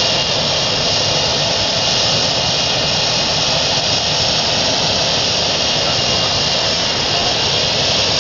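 Helicopter running: a loud, steady, unbroken rush of engine and rotor noise that holds an even level throughout.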